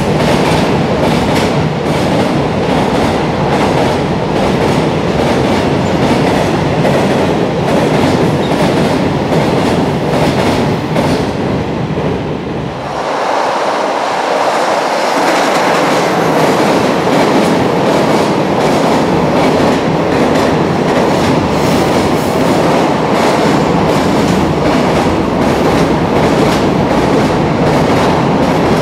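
Freight trains passing at speed on elevated track, the wheels clattering over the rail joints in a fast, steady clickety-clack. The clatter drops away briefly about halfway through, then another freight train passes with the same joint clatter.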